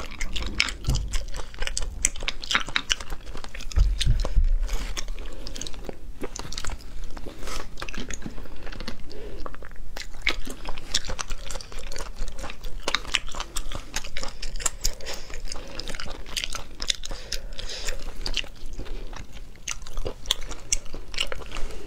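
Close-miked chewing of sea snail meat: wet, sticky mouth sounds made of many small sharp clicks, going on without a break.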